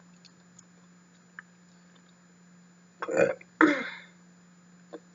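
A woman burps, two loud belches in quick succession about three seconds in, after a few faint mouth clicks.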